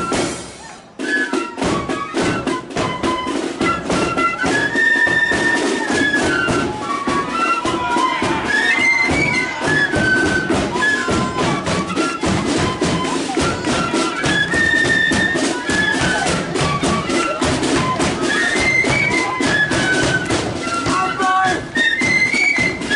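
Marching flute band playing a tune: flutes carry the melody over snare and bass drums. The music drops out briefly, then resumes about a second in.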